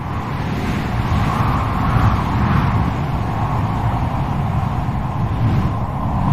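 Strong wind blowing: a steady low rumble with a whistling howl that wavers in pitch, swelling about two seconds in.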